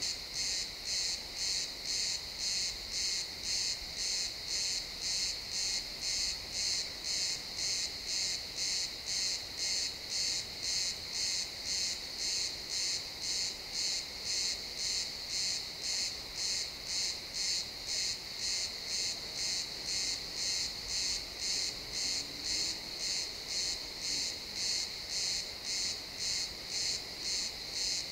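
Crickets chirping in an evening chorus: a high-pitched trill that pulses evenly, about two chirps a second.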